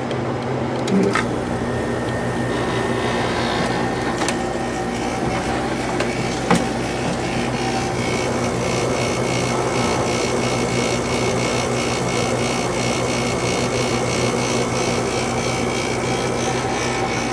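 Sharp window air conditioner running: the compressor kicks on about a second in under the already running fan, giving a steady hum. From about halfway a fast, even rattle and a high steady tone join in, the unit vibrating against what it sits on.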